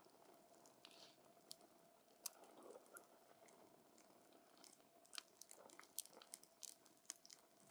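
Wood campfire crackling faintly: scattered sharp snaps and pops over a low hiss of burning, coming thicker in the last few seconds.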